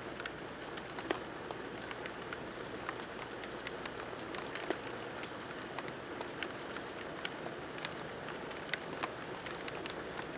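Steady rain falling, with individual drops striking sharply close to the microphone several times a second.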